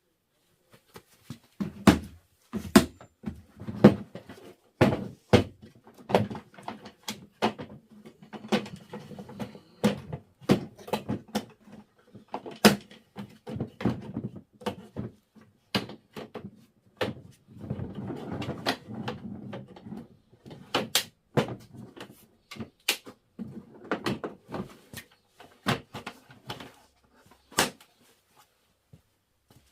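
DeWalt DWST25090 3-in-1 step ladder and tool box being handled, with an irregular run of sharp knocks and clicks and a few longer stretches of rattling and scraping. The sound dies down near the end.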